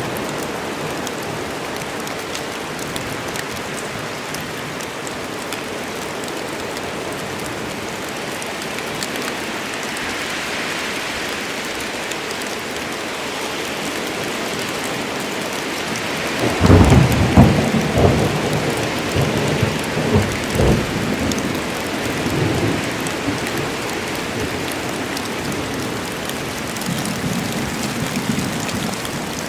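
Steady rain falling, with a clap of thunder a little past halfway that rumbles on in waves for several seconds before fading back under the rain.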